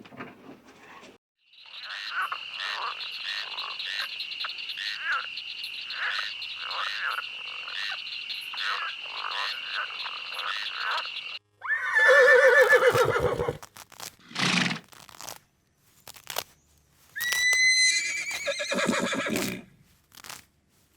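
A string of animal calls: a steady high trill with regular pulses for about ten seconds, then several louder, shorter calls with gaps between them, one rising in pitch near the end.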